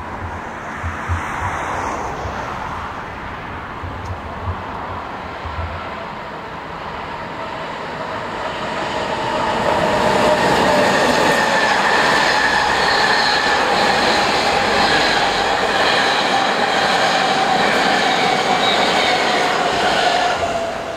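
NS class 1700 electric locomotive hauling an ICRm intercity push-pull train as it approaches and passes close by. The rumble grows louder about halfway through and stays loud for about ten seconds, with several steady ringing tones over it, then drops off at the end as the locomotive passes underneath.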